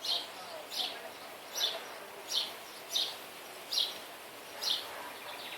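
A bird chirping over and over, one short high chirp about every three-quarters of a second, over a faint outdoor hiss.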